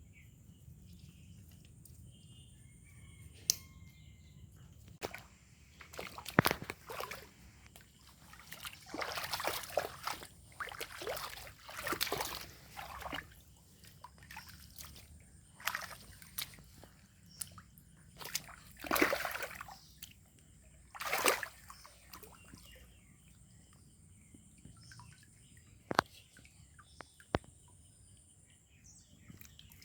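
Shallow water splashing and sloshing in irregular bursts, with a few sharp knocks between them.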